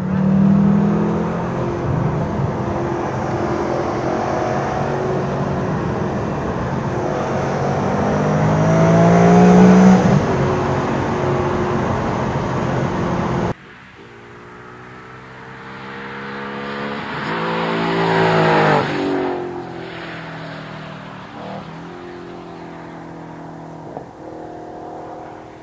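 Maserati Coupe's V8 through a loud Larini exhaust with an H-pipe, running hard and climbing in pitch and loudness during acceleration. About halfway through it drops off suddenly, then swells and falls away again as the car passes, before settling to a quieter steady run.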